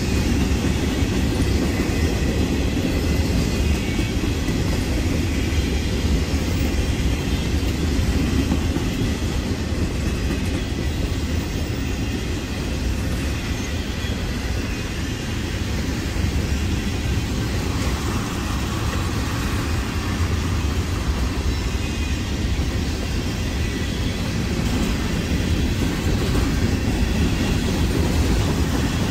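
Freight train cars, boxcars and then covered hoppers, rolling past: steel wheels on rail making a steady rumble.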